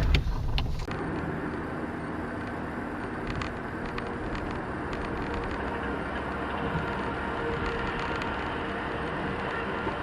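Steady car driving noise, with engine hum and road rumble as picked up by a dashcam inside the car. It is louder for the first second, then settles to an even level after a cut.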